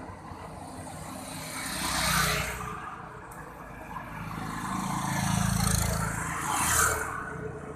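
Motor vehicles passing by, two in turn: the noise swells and fades about two seconds in, then again from about four and a half to seven seconds in, the second pass carrying a low engine rumble.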